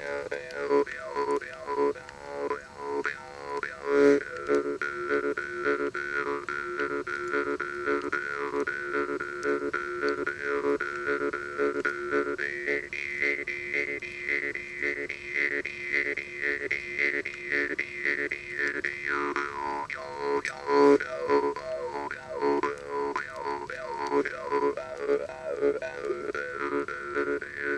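Jaw harp playing a steady drone in a quick, regular plucking rhythm, its overtone melody shifting up and down. From about halfway through the overtones hold higher for several seconds, then drop back.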